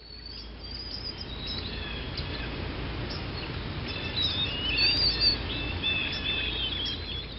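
Several birds chirping and singing in short whistled phrases over a steady low rumble of outdoor background, fading in at the start, with the busiest calls around the middle.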